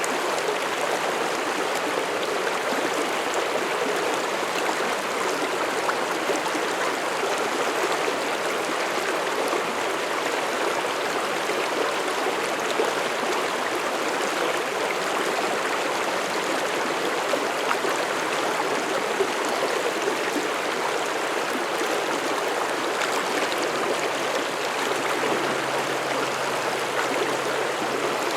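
Mountain stream rushing and gurgling over rocks in a steady, even flow.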